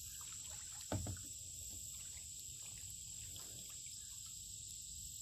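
Insects droning steadily in a high, even pitch, with one brief knock about a second in.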